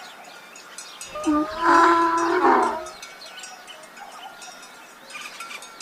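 A single loud call from a farm animal, about two seconds long, over the faint tinkling of livestock bells.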